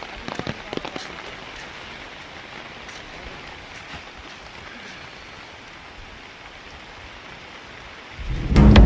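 A steady hiss of water with a few faint knocks in the first second. Loud music cuts in near the end.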